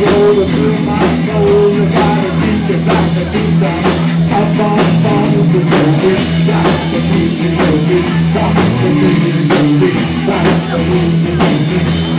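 Live rock band playing an instrumental passage of a blues-rock song: electric guitar, bass and drum kit over a steady beat.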